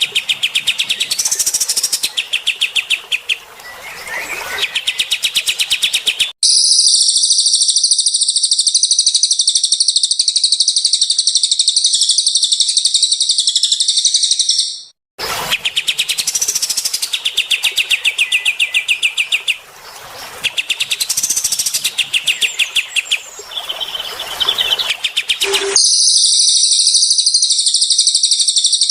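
Recorded songbird song of cililin and kapas tembak birds, played as a masteran track for training caged birds. Fast, repeated chirping trills switch abruptly, about six seconds in and again near the end, to a long, dense, high buzzing trill, with an abrupt cut back to chirping in the middle.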